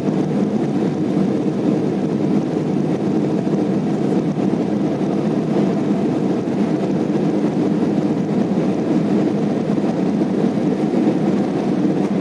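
Steady cabin noise inside a jet airliner climbing shortly after takeoff: an even, unbroken rumble of engines and airflow, strongest in the low-middle range.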